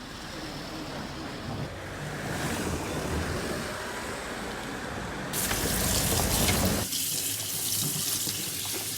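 Water running from a tap into a sink, a steady rushing stream that grows louder and brighter for about a second and a half past the middle before settling back.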